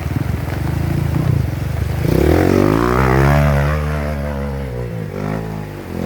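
Honda CRF150L trail motorcycle's single-cylinder engine running roughly at low revs, then revved up about two seconds in and let fall back.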